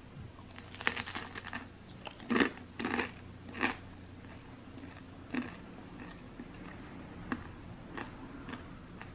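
Crunching chews on a crisp, air-fried frozen dumpling (mandu), sprayed with cooking oil and fried until it is cracker-crisp. A crackly flurry comes about a second in, then three loud crunches, then fainter crunches spaced a second or so apart.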